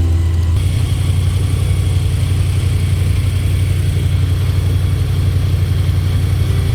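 Airboat engine and propeller running steadily with a loud, low drone as the boat cruises.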